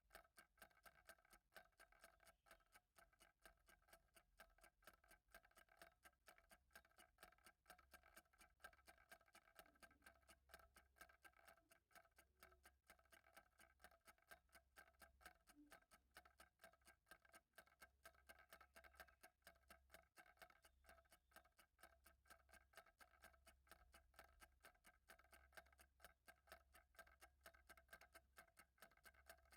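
Faint, steady ticking of a clock, evenly spaced ticks, over a faint steady hum.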